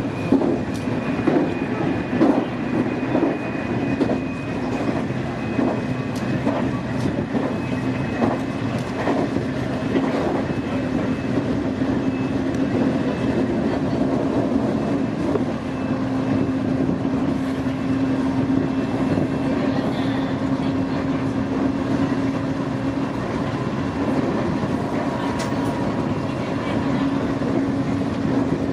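Nankai Main Line electric train running at speed, heard from inside the front car: a steady running hum with wheels clicking over rail joints, the clicks coming often in the first ten seconds and thinning out after.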